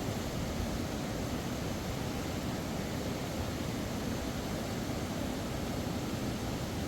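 Steady rush of a fast-flowing mountain river, an even noise with no breaks or separate events.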